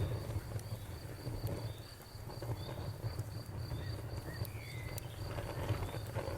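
Crickets chirping in an even, fast rhythm of about four or five chirps a second, over the low rumble of a bonfire, with a few sharp crackles from the burning wood.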